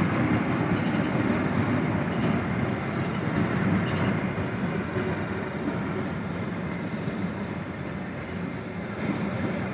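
Passenger train coaches rolling along the track: a steady rumble of wheels on rails that slowly fades as the train pulls away.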